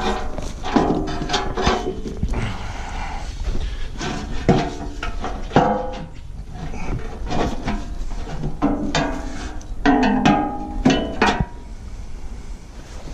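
Steel loader-bucket parts clanking and ringing as they are knocked together and fitted, in irregular clusters of strikes.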